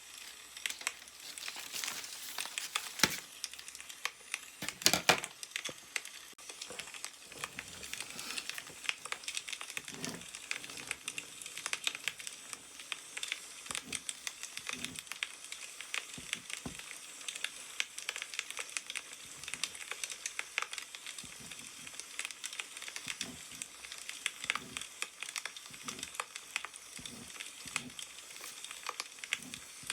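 Newspaper pages rustling and crinkling as they are handled, over a steady crackle of burning firewood, with a few sharper paper sounds about three and five seconds in.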